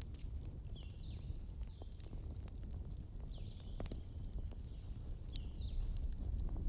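Wood fire crackling: scattered sharp pops and snaps over a low steady rumble, with a few short high-pitched chirps or whistles between about one and five seconds in.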